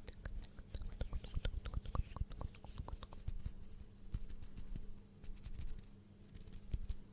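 Close-miked ASMR mouth sounds: a quick run of small wet clicks and smacks, thinning out after about three seconds, over a faint steady hum from the microphone.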